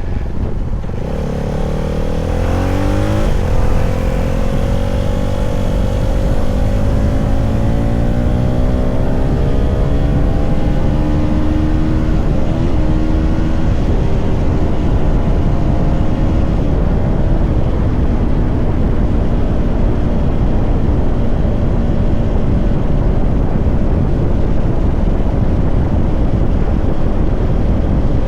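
CFMoto 300SR's single-cylinder engine riding under load. It revs up hard, drops as it shifts up about three seconds in, and pulls slowly up through the next gear. After another shift around twelve seconds it settles into a steady cruise.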